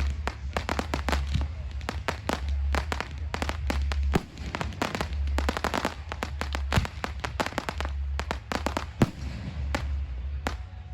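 Aerial fireworks bursting in rapid succession: dense volleys of sharp bangs and crackles, thinning to a few separate bangs near the end.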